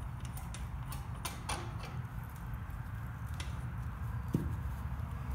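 A few scattered light clicks and knocks from hands working at the engine's cylinder head as it is pried and lifted, over a steady low hum.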